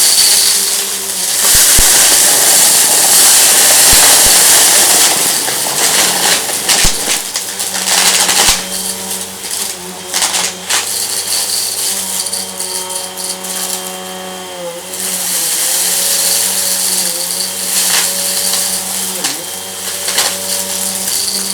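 Vacuum cleaner running over a rug and sucking up crunchy debris: a steady motor hum and rush of air, with scattered sharp clicks and crackles as the bits are pulled through. The motor's pitch dips briefly twice near the end as the load changes.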